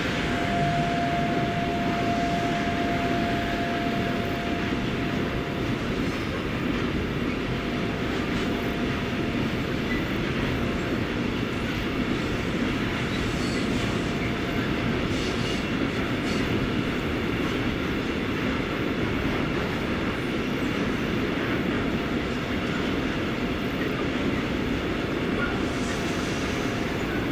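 A train passing close by on the rails, its wagons giving a steady, continuous rumble with a few faint clicks. A steady tone at the start fades away over the first few seconds.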